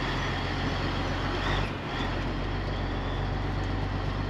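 Semi truck's diesel engine running steadily at low speed, heard from inside the cab as a constant low drone.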